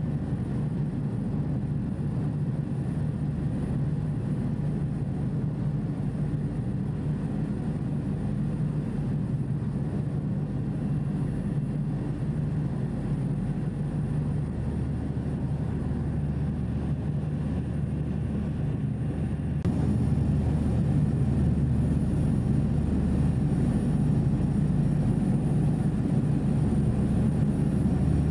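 Passenger ferry's engines droning steadily, heard on board, a low even hum that steps up in loudness about two-thirds of the way through.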